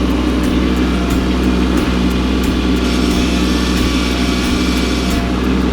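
Kubota compact tractor's diesel engine running steadily under load as the grapple works a rock, with a higher hiss joining from about three seconds in until near the end.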